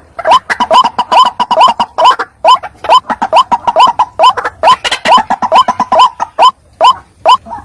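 White-breasted waterhen calls: short, rising 'kruak' notes repeated about three a second, with several birds calling over one another and the chorus thinning out near the end. It is a looped lure call meant to draw waterhens in.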